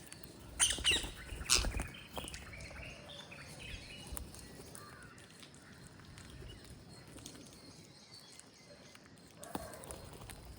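Parrots calling: two loud, harsh squawks about a second in, then softer chirps and clicks, with another short call near the end.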